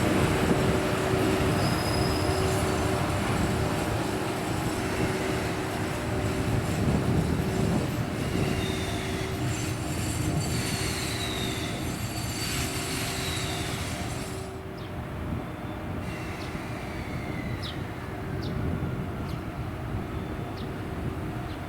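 Freight train hauled by an EF81 electric locomotive rolling slowly over the rails, with a steady hum and its wheels squealing in several falling glides. The rolling noise fades gradually, and about two-thirds of the way in the high hiss drops away, leaving short squeaks.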